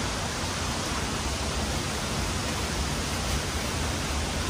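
Waterfall and river water rushing steadily, an even wash of noise with no break.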